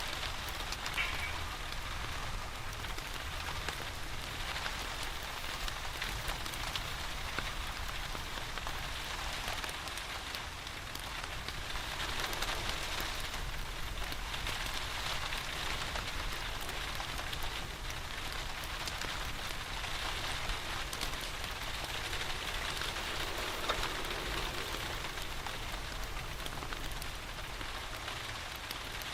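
Steady rain falling, dotted with many small sharp ticks and pops.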